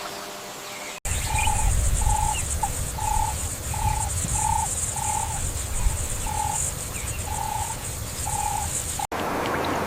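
Natural outdoor ambience of calling animals: a steady, high insect buzz with a short, flat-pitched call repeated every half second to a second, over a low rumble. The sound changes abruptly about a second in and again near the end.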